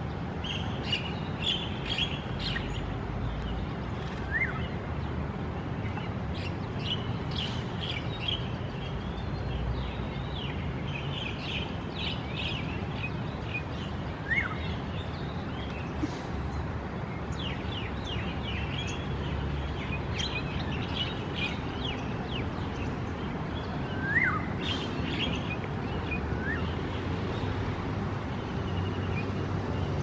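Wild birds chirping: many short, high chirps come and go throughout, with a louder rising-and-falling call three times, about ten seconds apart, over a steady background hiss.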